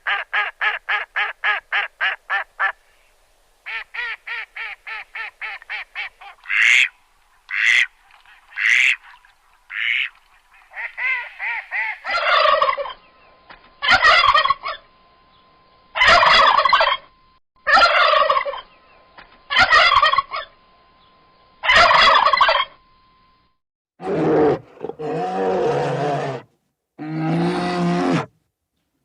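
Farm birds calling in succession: first a rapid pulsed chatter of about eight calls a second, then single loud calls about every two seconds over a faint steady tone, and lower-pitched calls near the end.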